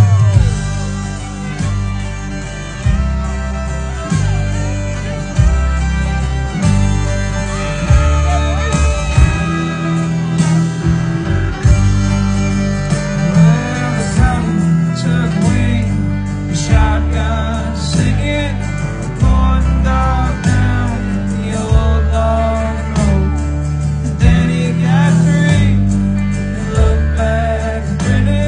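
Live country band playing with a singer: guitars, bass and drums in a steady beat.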